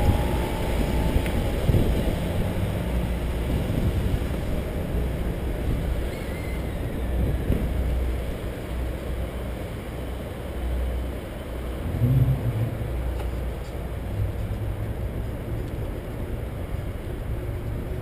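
Wind rushing over the microphone of a bicycle-mounted camera, over a steady low rumble from riding along a paved trail. A brief louder low swell comes about twelve seconds in.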